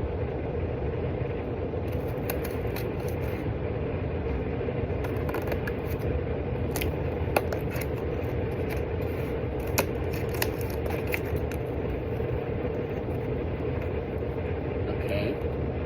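A steady low mechanical hum with a few light taps and scrapes of handwork on top.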